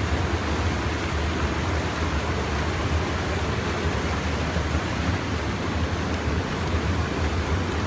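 Stream water rushing steadily, as over a small weir, a constant even noise with a deep low rumble.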